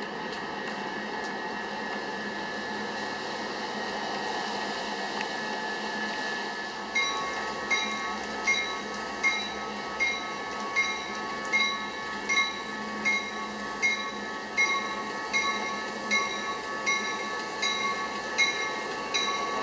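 Union Pacific freight train led by several diesel locomotives approaching and passing. About seven seconds in, a bell starts ringing at about four strikes every three seconds and keeps on.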